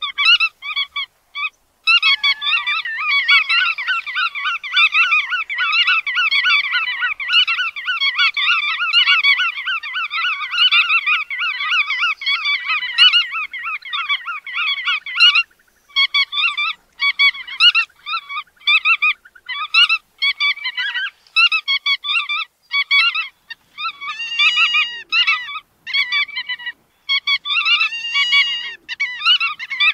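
Bar-tailed godwits calling: a rapid, overlapping run of calls for about the first fifteen seconds, then separate calls with short gaps, some of them rising-and-falling notes.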